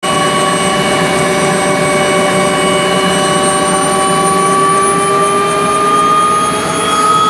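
Helicopter turbine engine running with a steady high whine that rises slowly in pitch.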